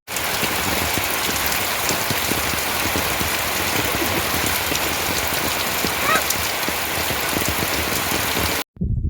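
Steady heavy rain falling, a dense patter of drops that cuts off abruptly near the end.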